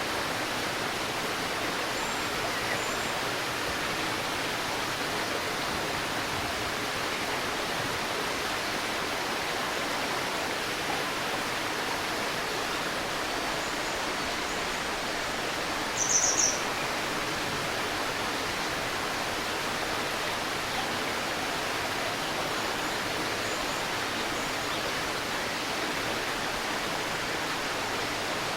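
Babbling stream flowing steadily, with faint bird chirps and, about halfway through, one brief louder burst of quick high-pitched bird notes.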